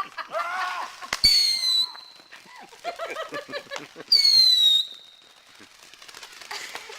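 Two shrill firework whistles, each about half a second long and sliding slightly down in pitch. The first comes about a second in and the second about four seconds in, with voices between them.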